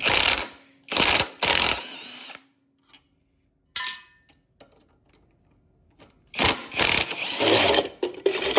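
A power driver spinning in short runs, undoing the muffler bolts on a Honda GCP160 lawnmower engine: several bursts of a second or so each, then a longer run of about two seconds near the end.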